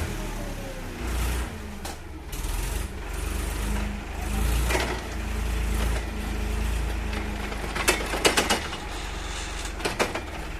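Tractor engine running with a steady low rumble, and a quick cluster of sharp knocks about eight seconds in.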